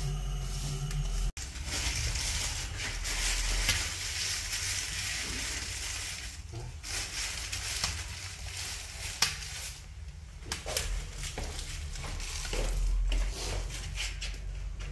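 Wood fire crackling and hissing in a freshly lit wood-burning stove's firebox, with many small scattered pops.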